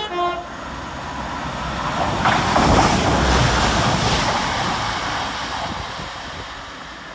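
Northern Class 195 diesel multiple unit passing through the station at speed: a rushing rumble of wheels and engine builds, peaks about three seconds in and then fades away. A short pitched note sounds right at the start.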